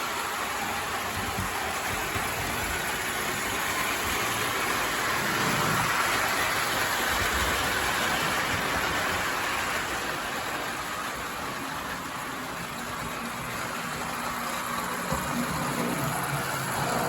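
Postwar Lionel 2025 O gauge steam locomotive running at full throttle while hauling a long, heavy train: a steady whir of the motor with the rumble of wheels on the track. It grows louder around the middle, fades a little, then swells again near the end as the train comes round.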